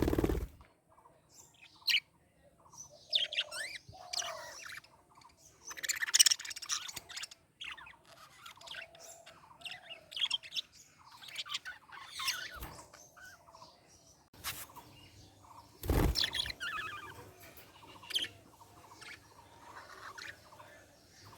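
Budgerigars chirping and warbling in a busy run of short, quick calls, with a few louder harsh bursts about two, six and sixteen seconds in.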